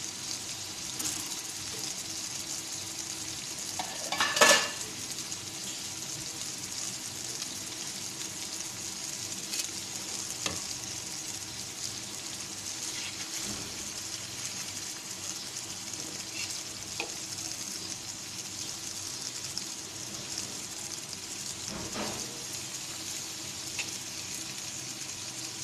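Whole green chillies sizzling steadily in oil in a frying pan over a medium-to-low flame. A few sharp knocks come from a metal utensil on the pan, the loudest about four seconds in, and a spatula scrapes and stirs near the end.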